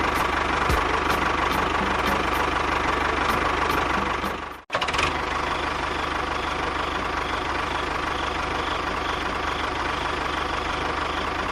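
A motor running steadily; the sound cuts out abruptly for a moment a little under halfway through, then carries on.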